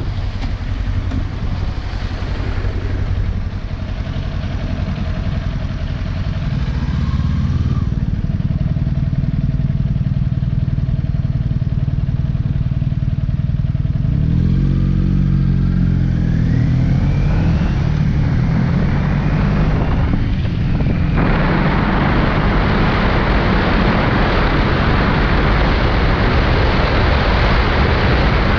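Kawasaki Ninja 400's parallel-twin engine running on the move, its pitch rising as it revs up through the gears near the middle. A loud steady rush of wind noise comes in about three-quarters of the way through.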